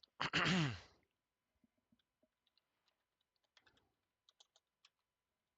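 A short voiced sigh, falling in pitch, right at the start, followed by scattered computer keyboard key clicks of typing.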